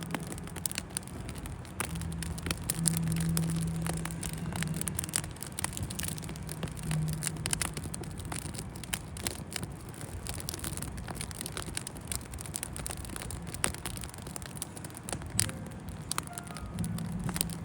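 Firewood burning in an open campfire, crackling with frequent irregular sharp pops. A low steady hum comes and goes underneath.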